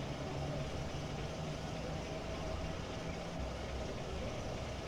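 A motor vehicle's engine running steadily with a low rumble; its hum shifts lower about three and a half seconds in.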